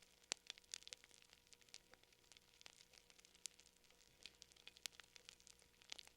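Wood fire crackling faintly: irregular sharp pops and snaps, several a second, over a soft hiss.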